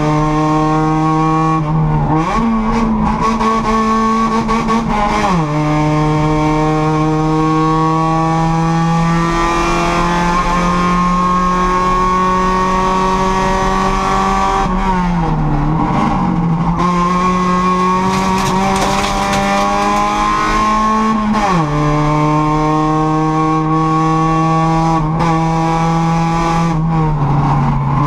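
Hill-climb race car's engine heard from inside the stripped cabin, running hard at high revs. Its pitch climbs steadily under acceleration, jumps up about two seconds in, and drops sharply several times as the driver changes gear or lifts for corners.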